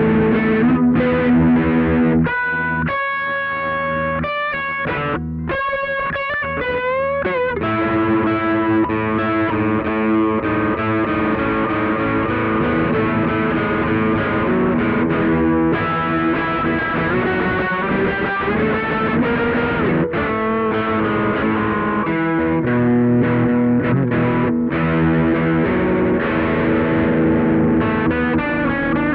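Electric guitar played through a DIY distortion pedal: sustained distorted notes and chords, with a bent note and vibrato about six to seven seconds in.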